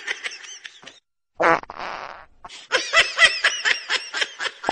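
Laughing, then a short buzzy fart sound about a second and a half in, followed by a longer run of quick, rapid laughter.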